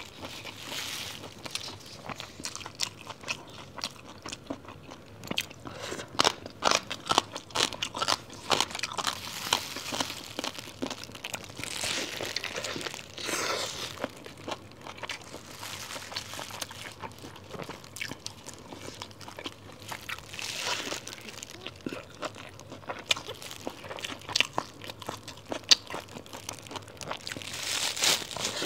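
Close-miked eating: a person biting into and chewing a large flatbread roll filled with papaya shreds, with irregular crunches and mouth sounds. Now and then the plastic wrapper and gloves around the roll crinkle.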